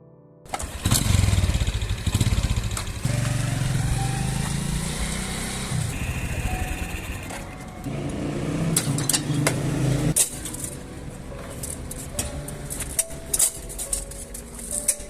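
An engine running with a steady rumble, then a series of sharp clicks and knocks through the second half.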